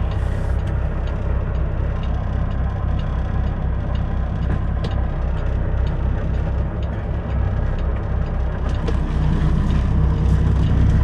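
Semi truck's diesel engine running at low speed, a steady low rumble with an even pulse.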